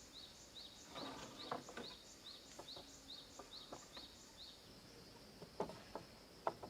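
A short, high, rising chirp repeating about two and a half times a second, giving way to a steady high drone about two-thirds of the way through. Scattered light knocks and handling noises sit underneath.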